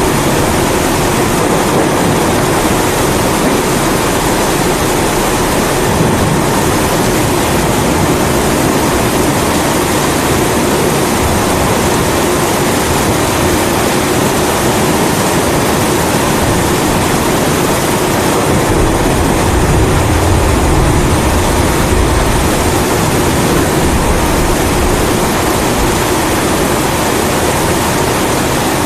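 Kerosene pressure (primus) stove burning with a steady roar, layered with continuous rain. A low rumble of thunder swells and fades about twenty seconds in.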